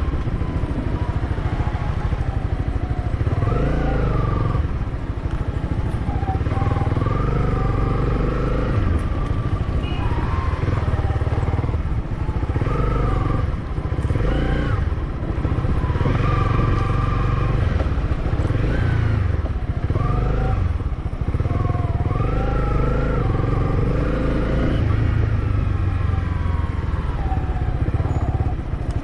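Motorcycle engine heard from on board while riding, its pitch rising and falling over and over every two to three seconds as the rider opens and closes the throttle and shifts, over a steady low rumble.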